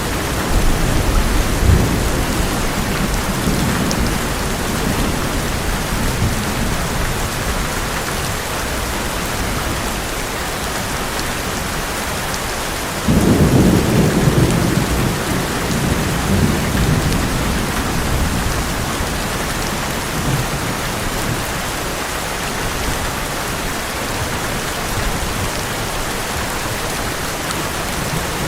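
Heavy rain drumming steadily on an old metal roof, with low thunder rumbling near the start. About halfway through, a sudden loud thunderclap rolls on for several seconds.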